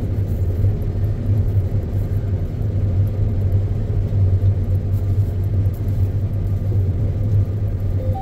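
John Deere X9 combine running steadily while harvesting standing canola: a constant low drone with no change in pitch.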